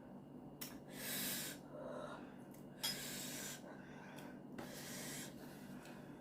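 A person breathing hard through the mouth, with several separate hissing breaths in and out, as from the chili burn of spicy Samyang fire noodles.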